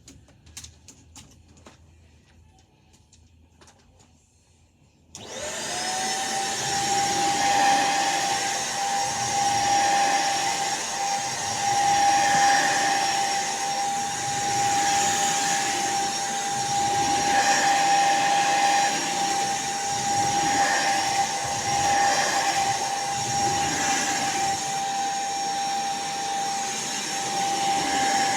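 A few faint clicks, then a vacuum cleaner switched on about five seconds in. Its motor spins up within a fraction of a second to a loud, steady high whine over a rush of air that swells and fades every couple of seconds.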